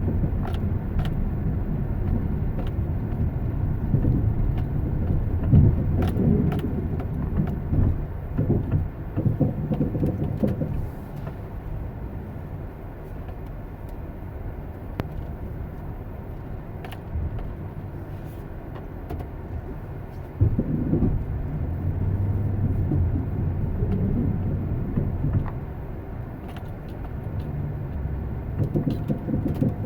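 A motor vehicle running steadily, with a low engine hum and road rumble and occasional small clicks and knocks.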